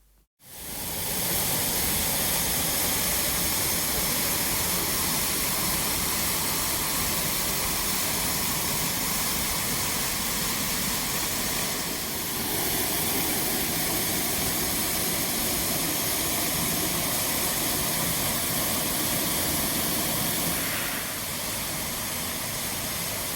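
Catrigg Force waterfall: a steady, even rush of falling water, with small shifts in level about twelve and twenty-one seconds in.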